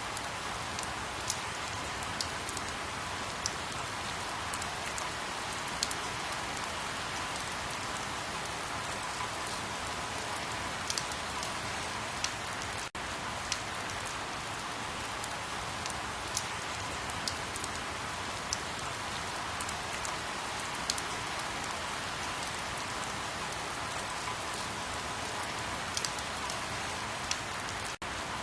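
Steady rain falling, with scattered sharper drops hitting a surface. The sound cuts out for an instant twice, about 13 seconds in and near the end.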